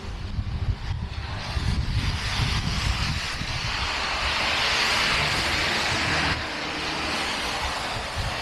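Street noise in a snowstorm: a low, choppy rumble with a rushing hiss that swells about two seconds in and drops off suddenly near six seconds, from wind on the microphone or passing traffic.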